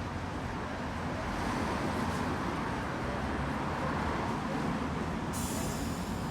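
Steady road traffic noise on a city street, swelling slightly in the middle as a vehicle goes by, with a high hiss setting in near the end.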